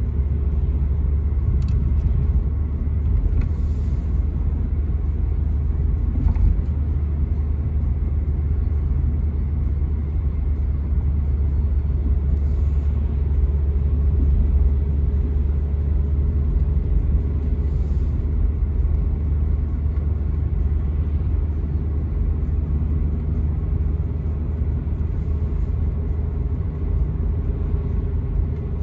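A 1995 Toyota Carina E with its 1.6-litre 16-valve four-cylinder engine, driving at a steady speed. Its engine and road noise make a steady low rumble that neither rises nor falls.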